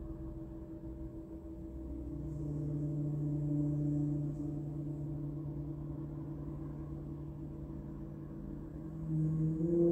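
Sound-therapy instruments of the gong and singing-bowl kind ringing with long, steady, overlapping tones. A lower tone enters about two seconds in, and another is sounded near the end.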